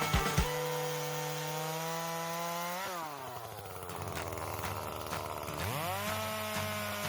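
Gasoline chainsaw running at high speed, its pitch dropping about three seconds in as it bogs down cutting into a log, then climbing back to full speed a little before the end. A few sharp knocks at the very start.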